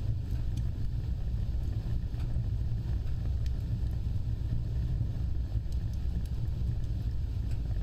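Wood fire burning with a steady low rumble of flames and faint, scattered crackles.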